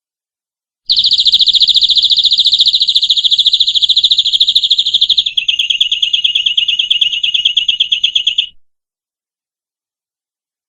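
Domestic canary singing a rapid trill of many repeated high notes, starting about a second in, switching partway to a slightly lower trill, then stopping abruptly.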